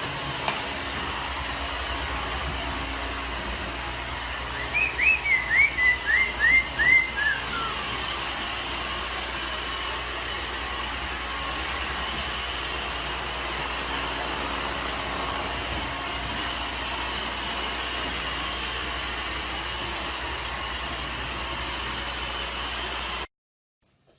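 Steady hiss throughout, with a run of about seven short whistled chirps from a parrot about five seconds in, each falling in pitch and the last trailing lower.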